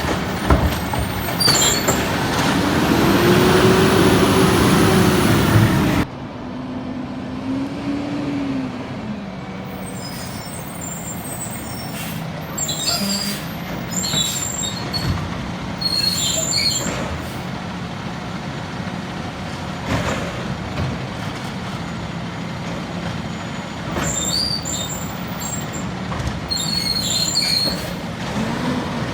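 Peterbilt 320 garbage truck's diesel engine running, its pitch rising and falling several times. Short high squeals and hisses recur, with a louder stretch that drops off suddenly about six seconds in.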